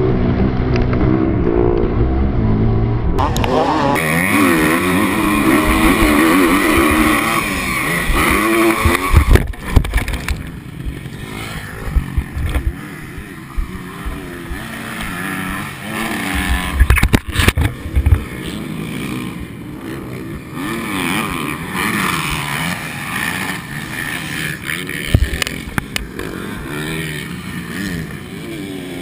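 Dirt bike engines revving, their pitch rising and falling, through the first third. After that comes a rough, noisy engine-and-ride sound broken by several loud knocks, about ten seconds in and again a little past halfway.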